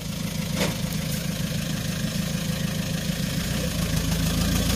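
Off-road SUV's engine running steadily at low revs, growing gradually louder as the vehicle drives out.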